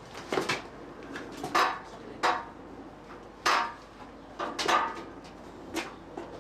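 Irregular sharp metallic clanks and knocks, about nine of them, from a Clarke Strong Arm folding engine crane and its hoisted Jaguar V12 engine as the load is shifted.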